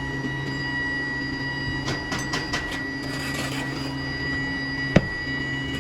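Steady machinery hum with a high whine in a metal-casting shop, with a few light metallic clinks about two seconds in and a single sharp knock near the end.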